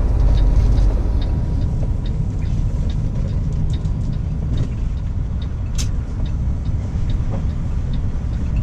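Semi truck's diesel engine running with a steady low rumble, heard from inside the cab, with light clicks and rattles and one short sharp high sound about six seconds in.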